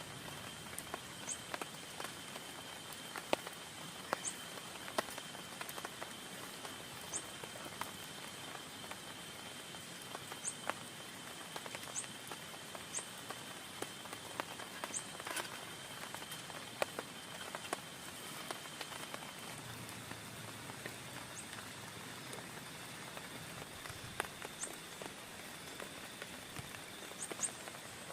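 Rain falling on a tent: a steady hiss with many separate drops tapping on the fabric. A faint steady high tone and short high chirps every one to three seconds run underneath.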